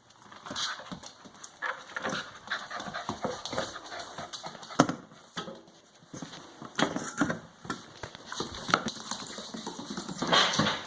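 A dog scrabbling and knocking about, with irregular clicks, taps and scrapes as it works to get an object out. A single sharp knock about halfway through is the loudest.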